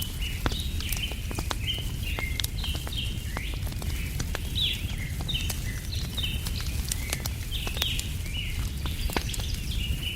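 Wood fire crackling with frequent sharp pops over a steady low rumble, while small birds chirp over and over in short high notes.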